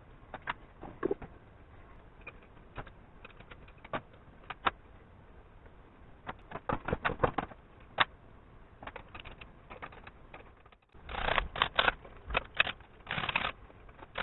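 Scattered sharp metallic clicks and clinks of hand tools and engine parts being handled during work on a Ural motorcycle engine. A quick run of clicks comes about seven seconds in, and a denser, louder clatter follows after about eleven seconds.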